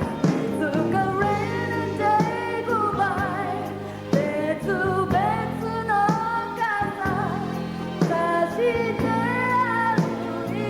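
Live pop song: a woman singing the lead over a band, with steady bass and occasional drum hits.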